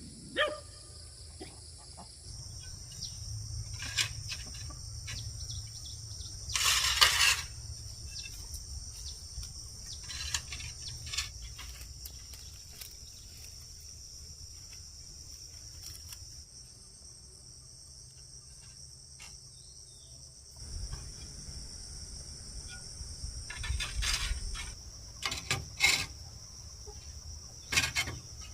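A steady, high-pitched chorus of insects droning throughout, with scattered knocks and clicks. There is a short rustling burst about seven seconds in and a cluster of louder knocks near the end.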